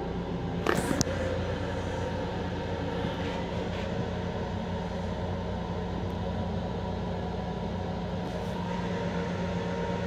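Steady hum and rumble of an M7 electric railcar's running equipment, heard from inside its small restroom. A brief sharp clatter comes about a second in.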